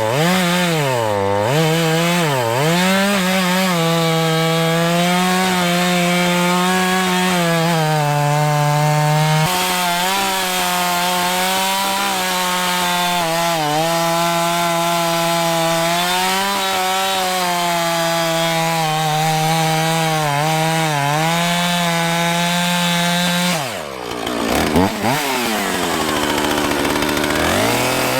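Petrol chainsaw at high revs cutting through a fallen tree's trunk, its pitch dipping and recovering as the chain bites into the wood. Near the end the engine drops right down, then is revved up again.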